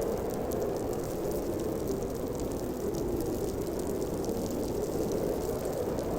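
Snowstorm wind blowing steadily, a dense even rush with faint scattered ticks above it.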